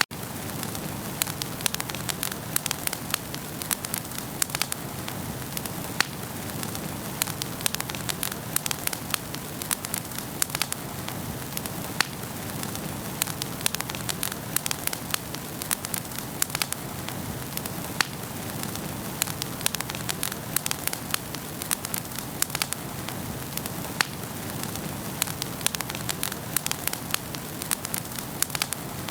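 Wood fire burning in a fireplace, a steady low rush with frequent sharp, irregular crackles and pops from the burning logs.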